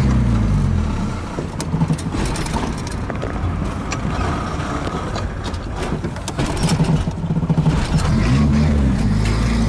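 Chevrolet Opala's engine running, heard from inside the cabin while driving, its pitch shifting several times as the revs change, with a few sharp clicks over it.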